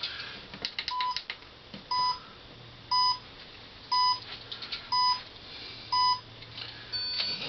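Electronic start-signal beeps from the slot car race set: short, identical beeps about once a second, six in all, with a fainter, higher tone near the end. A few light clicks come in the first second or so.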